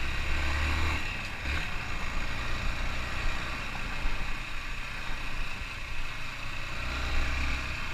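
Motorcycle engine running as the bike rides along a dirt trail, with a low rumble that swells in the first second and again near the end.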